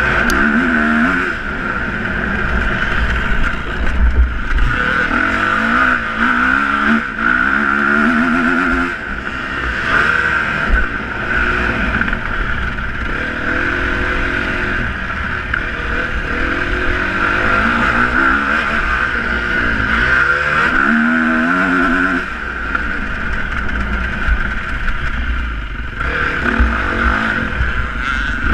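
Motocross bike engines revving up and down over and over, their pitch climbing and dropping every second or two, over a steady high-pitched drone.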